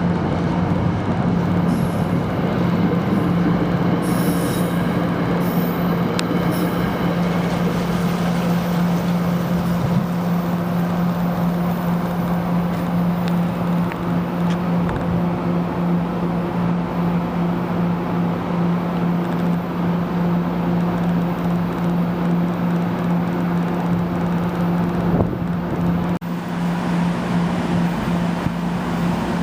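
Commuter train running along the track: a steady hum over the rumble of wheels on the rails, with faint high squeals about four to seven seconds in.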